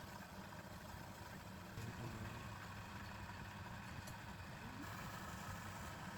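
A machine running steadily, a low hum under a faint even hiss.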